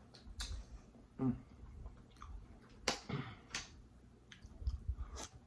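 A person chewing food close to the microphone, with a few sharp mouth clicks and lip smacks.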